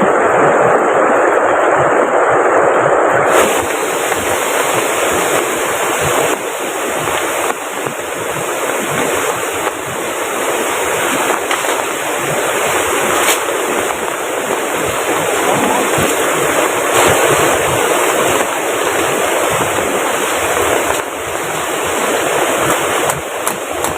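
Steady rushing noise of heavy rain and river water. About three seconds in, the tone changes abruptly, with less body in the middle and more hiss on top.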